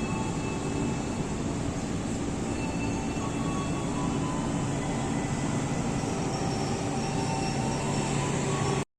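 Train running on the rails: a steady rumble of wheels and cars with faint thin wheel squeals above it, cutting off suddenly near the end.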